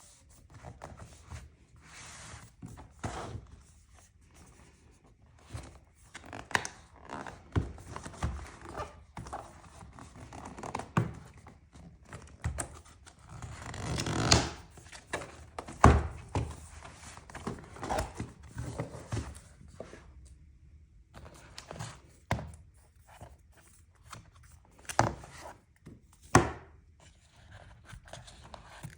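Packaging of a DJI Osmo Action 3 action camera being opened and handled: a run of scattered clicks and knocks, with a longer rustling tear or slide about halfway through and one sharp knock just after it.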